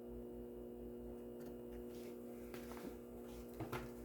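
Faint steady electrical hum, with a few soft clicks from handling the toy car or its package, most of them near the end.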